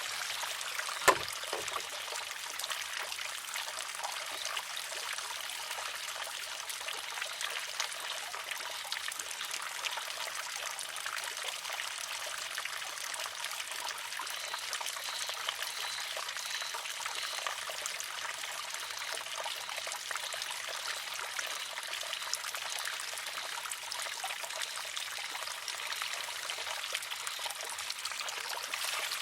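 Water trickling steadily through a wooden shishi-odoshi, with one sharp clack about a second in as the water-filled arm tips and strikes its rock.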